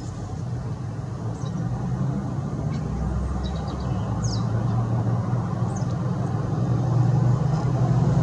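A motor vehicle's engine running steadily close by, its low hum growing louder toward the end, with a few short high chirps of small birds over it.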